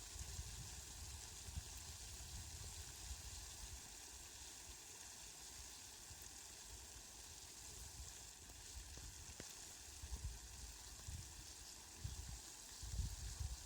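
Steady, faint hiss of falling rain, with low rumbles coming and going, the strongest near the end.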